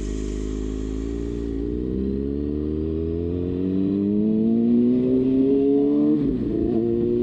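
Kawasaki Ninja ZX-6R inline-four engine accelerating, its pitch climbing steadily. About six seconds in the note briefly wobbles, then it keeps rising.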